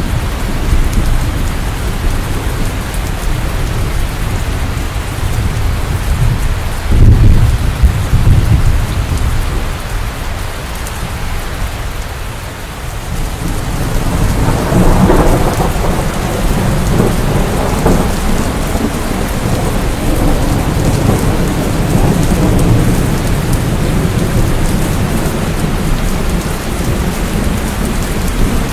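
Steady rain falling, with thunder rumbling over it: a short low rumble about seven seconds in, then a longer, louder roll of thunder from about halfway through.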